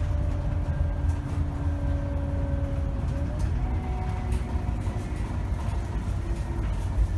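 2010 Scania K270 city bus under way: a heavy low rumble from its diesel engine and drivetrain, with a steady whine that steps up in pitch about three seconds in, and light rattles.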